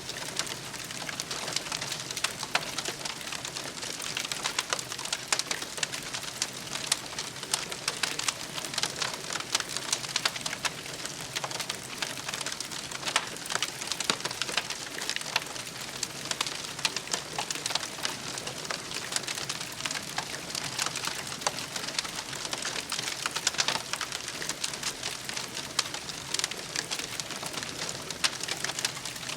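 Campfire crackling: a dense, irregular stream of small pops and snaps over a steady hiss.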